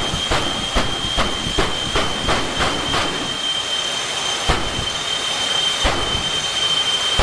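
Jet-powered drag car's turbine engine running with a steady high-pitched whine, overlaid by a string of sharp pops about two to three a second that thin out in the second half.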